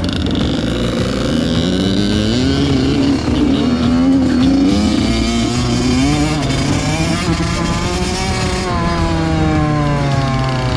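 Two-stroke dirt bike engine revving, its pitch rising and falling again and again.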